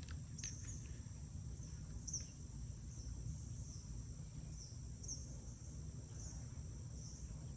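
Faint insect chorus: a steady high-pitched trill with short chirps repeating every half second to second, over a low background rumble, with a few faint clicks near the start and about two seconds in.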